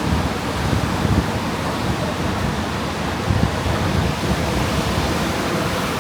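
Steady rush of ocean surf, with wind buffeting the microphone in an uneven low rumble.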